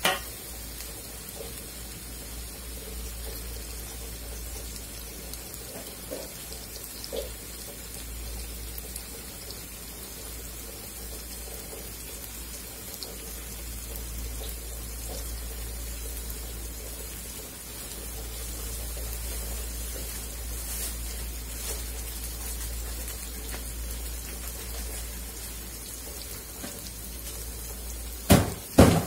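Sliced onions and spices frying in oil in an aluminium karahi: a steady sizzle throughout, with a few sharp knocks near the end.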